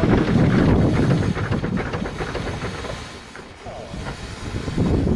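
Steam locomotive working on the line, with steam hissing; the sound eases off about three seconds in and builds again near the end.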